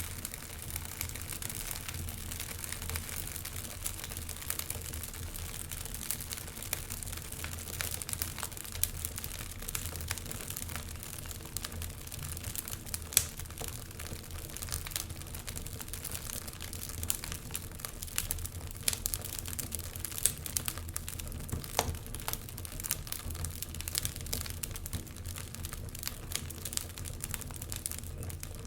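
Logs burning in a fireplace, crackling with irregular sharp pops over a steady hiss and a low rumble. One louder pop comes about 13 seconds in.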